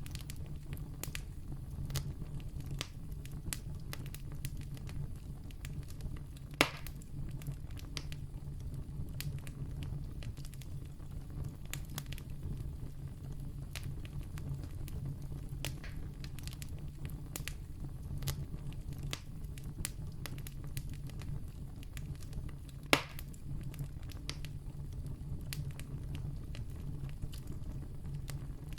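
Wood campfire crackling: frequent small snaps and ticks over a steady low rumble, with two louder pops about six and a half seconds in and again near twenty-three seconds.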